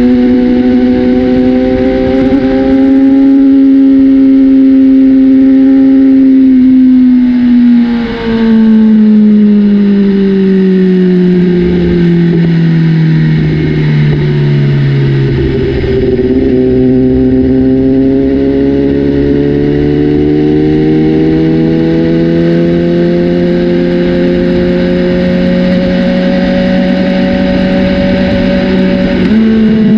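BMW S1000RR inline-four engine through a new Austin Racing aftermarket exhaust, held at steady high revs, then the revs fall slowly for several seconds, climb gradually back up, and jump up again near the end.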